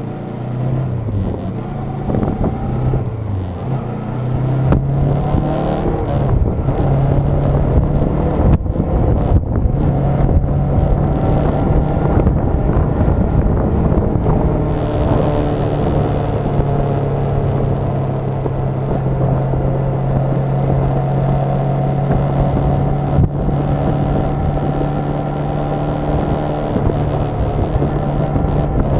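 Motorcycle engine running under way, heard from a camera on the bike. Its pitch rises and falls over the first few seconds as it revs up and shifts, then holds at a steady cruise.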